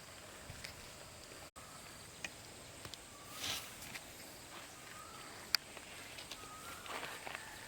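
Quiet outdoor background with scattered light clicks and rustles, a brief rustle about three and a half seconds in and a sharp tick a couple of seconds later.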